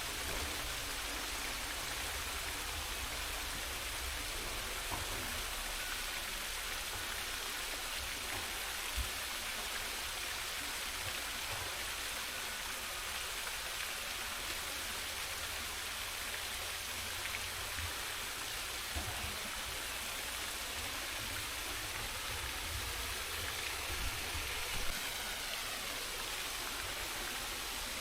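Steady rushing of running water, even and unbroken, over a low rumble with a few soft knocks, the clearest about 9 and 25 seconds in.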